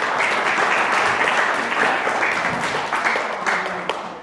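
Audience clapping and applauding, a dense patter of many hands that tapers off near the end.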